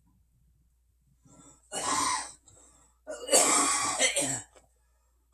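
A man coughing: a short cough about two seconds in, then a longer, harder coughing bout a second later.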